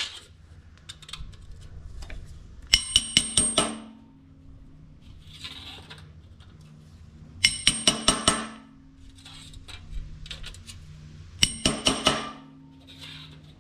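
Hammer tapping a metal strip against a steel bar to flatten out dents left by staples. The taps come in three quick bursts of five to seven ringing metallic strikes, a few seconds apart.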